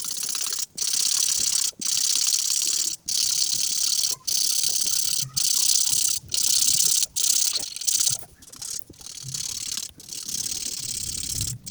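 Coloring tool scratching across paper in a series of back-and-forth strokes, each about a second long with brief pauses between.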